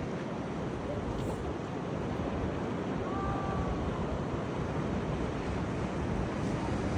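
Rough, stormy sea: a steady wash of surf and breaking waves, with wind buffeting the microphone.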